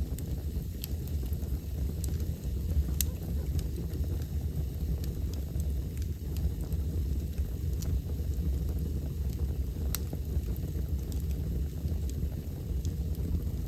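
Wood fire burning in a fireplace, crackling with scattered sharp pops over a steady low rumble; two louder pops come about three seconds in and about ten seconds in.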